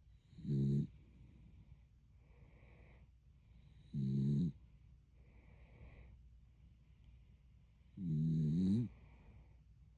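Dog snoring in its sleep: three loud snores, each under a second long and about four seconds apart, with softer breathing sounds between them.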